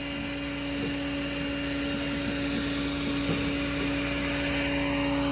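A nearby engine or machine running at a steady speed: a constant hum with a held tone, growing slowly louder.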